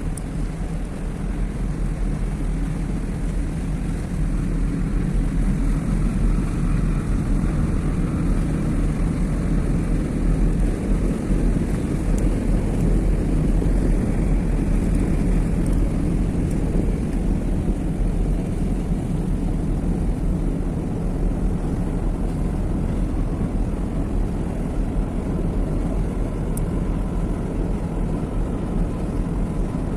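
Steady, deep rumble of a large dual-fuel container ship's engine and propeller as the ship passes close by.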